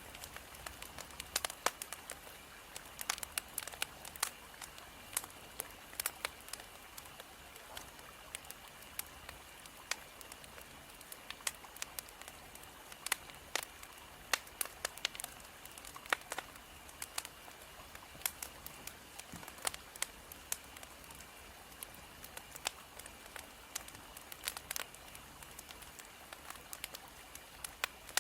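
Firewood burning in a fire, crackling with irregular sharp pops over a soft steady hiss.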